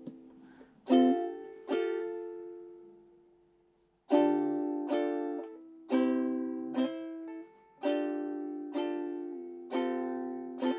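Ukulele strumming chords in a relaxed rhythm, each strum ringing out. There is a short pause about three seconds in, and then the strumming picks up again.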